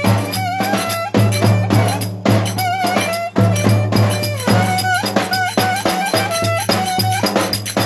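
Live Turkish folk band music: an ornamented melody over a sustained low bass note, with a steady drum beat and rattling percussion.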